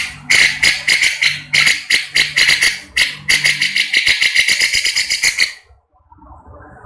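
Grey-cheeked bulbul (cucak jenggot) giving a fast run of harsh, rattling chatter notes that come quicker toward the end and stop abruptly about two-thirds of the way in.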